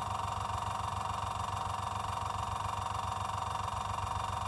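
Small airbrush compressor motor running steadily with a constant hum, building up air pressure.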